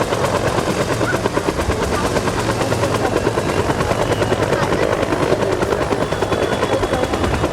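Helicopter rotor chopping in a fast, steady beat of blade pulses.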